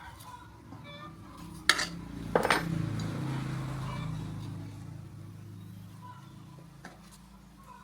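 Two sharp metallic clinks, like metal tools or engine parts knocked together, followed by a rush of hiss that swells and fades over a couple of seconds, over a steady low hum.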